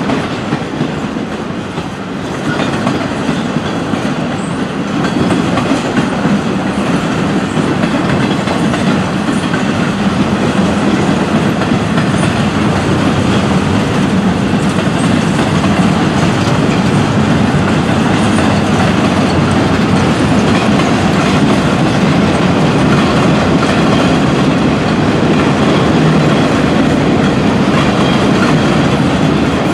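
Freight cars rolling past on the rails, a steady rumble of steel wheels on track.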